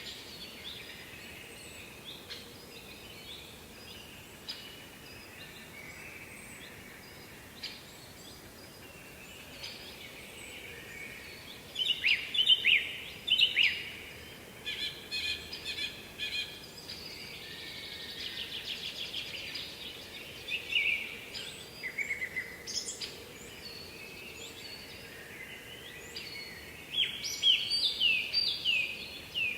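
Several songbirds singing, with chirps, a rapid trill and a run of falling notes, loudest about twelve seconds in and again near the end, over a faint steady background noise.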